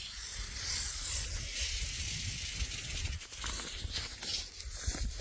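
Steady rustling hiss with a low, fluctuating wind rumble on the microphone.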